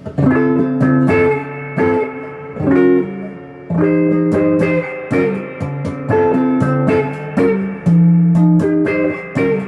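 Donner DLP124 electric guitar with its stock pickups, on the middle pickup position through a light overdrive, playing a run of chords and short riffs, the notes ringing between each new strike.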